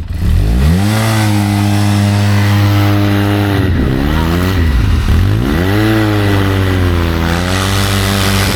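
Side-by-side UTV engine revving hard at full throttle as it pulls through deep snow on a kinetic recovery rope. It revs up sharply at the start and holds high. About four seconds in the revs drop and dip twice, then it climbs back to full throttle and holds.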